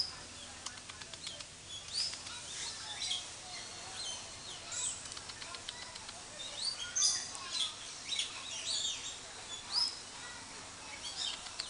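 Birds chirping: many short, high calls scattered throughout, with a busier run of calls around seven seconds in.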